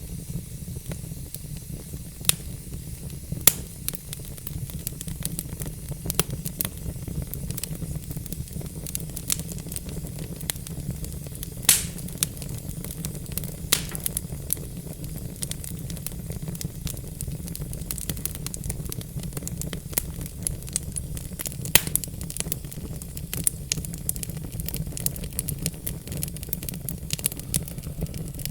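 Wood fire in a fireplace crackling, with a steady low rumble of burning logs under irregular sharp pops, a few of them much louder than the rest.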